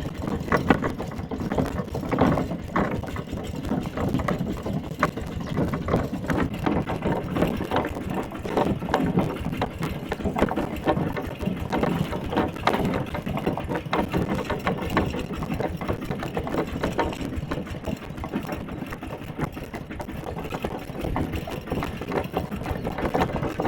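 Mini tractor's engine running steadily with a rapid chatter, as the tractor is driven along.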